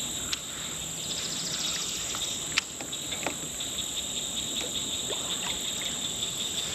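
Summer insect chorus, a steady high pulsing trill like crickets. A few faint clicks, and one sharp click about two and a half seconds in.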